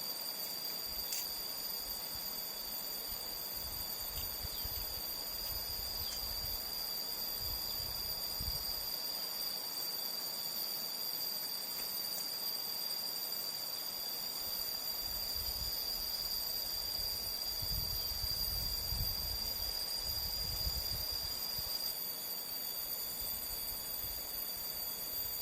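Steady high-pitched chorus of crickets and other insects, several shrill tones held without a break, over an irregular low rumble that swells in the second half.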